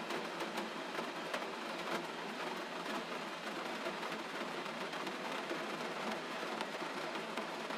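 Gentle rain falling steadily: an even hiss scattered with many small drop clicks.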